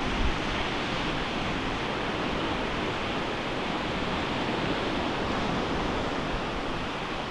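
Ocean waves breaking on a beach: a steady, continuous wash of surf. There is a brief low thump just after the start.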